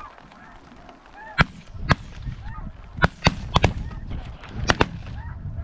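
A volley of shotgun shots, about eight in quick irregular succession from several guns, fired at incoming snow geese. The geese keep calling between the shots.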